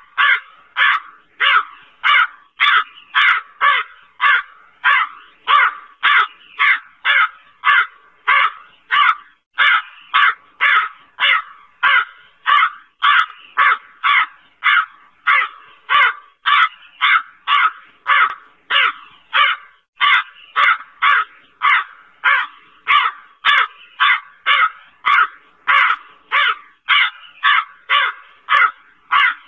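A crow cawing over and over, short harsh caws evenly spaced at about two a second without a break.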